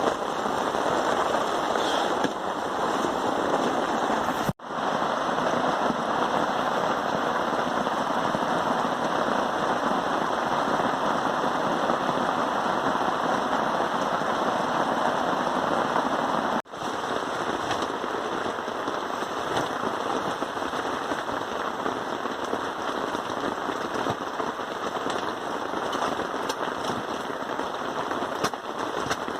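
Heavy rain pattering steadily and close by, a dense crackle of many drops striking a surface, with two brief breaks in the sound.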